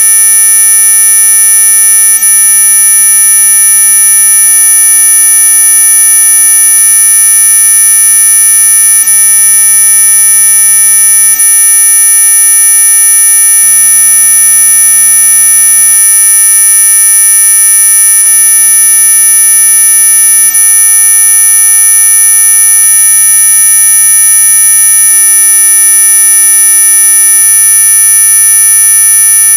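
Synthetic anti-mosquito 'ultrasonic' repellent tone: a loud, unchanging electronic whine of several high pitches sounding at once, buzzer-like and piercing, with a lower hum underneath.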